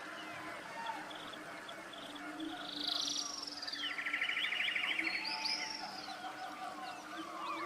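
Forest bird chorus: several birds calling over one another. One repeats a fast buzzy trill, about a second long, every few seconds. Others give high, falling whistles, over a steady low broken tone.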